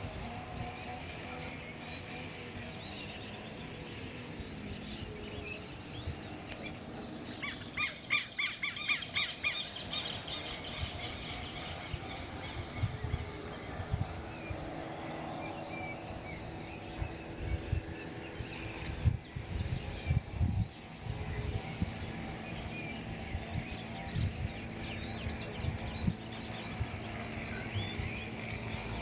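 Wild birds calling outdoors: a fast run of repeated chirps about eight seconds in, and many quick high chirps near the end, over a steady high-pitched hum.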